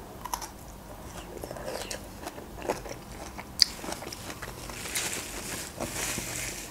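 A person biting into a broccoli floret and chewing it, with soft crunches and small wet clicks and one sharper click about three and a half seconds in.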